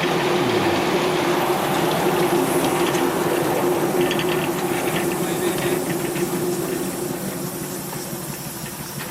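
Live-steam miniature locomotive letting off a loud, steady hiss of steam with a low hum under it, starting suddenly and fading slowly.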